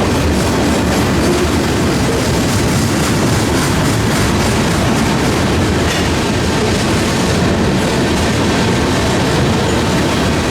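Freight train rolling past, steel wheels clicking over the rail joints, with gusty wind buffeting the microphone.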